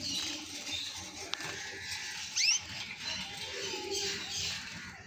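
Caged mosaic canaries: one short, sharp chirp sweeping upward about two and a half seconds in, over light scratching and pattering of the birds moving in the cage, with a single click a little before.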